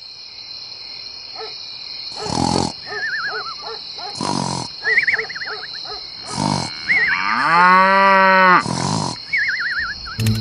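Cow mooing: several short calls a couple of seconds apart and one long, steady moo about three quarters of the way through. Warbling chirps come in between, over a steady high tone.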